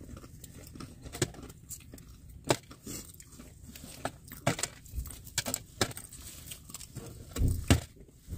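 Close-up eating sounds: chewing potatoes, with scattered small clicks and mouth smacks and a low thump near the end.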